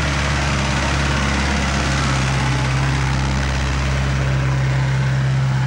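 Off-road 4x4's engine running at low, steady revs as the vehicle drives slowly past close by.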